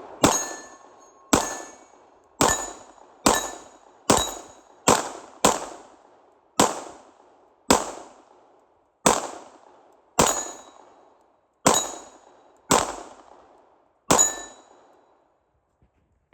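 Glock 19X 9mm pistol firing fourteen shots at an uneven pace, half a second to a second and a half apart, with a ringing clang of steel plates being hit after most shots. The firing stops about two seconds before the end.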